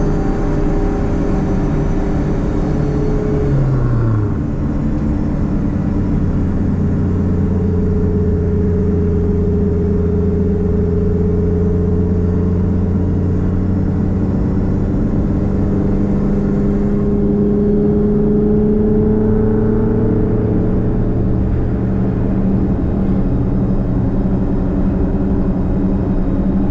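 Nissan Platina's engine and straight-piped exhaust droning while driving. The revs drop briefly about four seconds in, as at a gear change, then rise slowly in pitch under steady acceleration and ease off after about twenty seconds.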